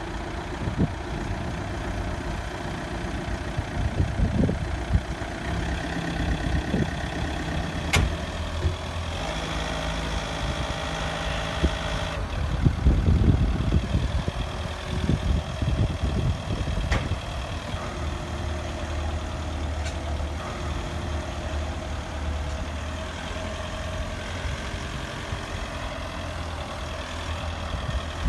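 Truck engine idling and pulling slowly, a steady low drone that grows busier and louder for a few seconds about halfway through, with a few sharp clicks.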